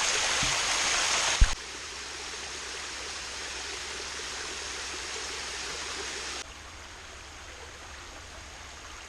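Steady rush of flowing water, loudest for the first second and a half. It drops abruptly twice, with a single knock just before the first drop.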